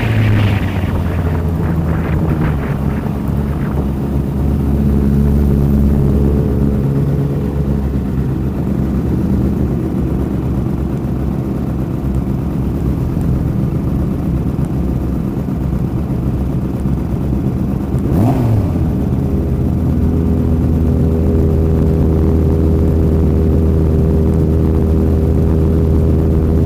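Superbike racing motorcycles on a track: a bike passes as the sound opens, its engine pitch dropping away, then a steady engine drone, with another quick pass-by about 18 seconds in.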